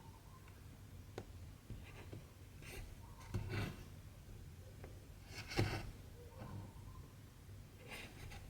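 Cross-stitch needle and cotton thread pulled through 14-count stitching fabric: several short, scratchy swishes and light taps, the loudest about two-thirds of the way through.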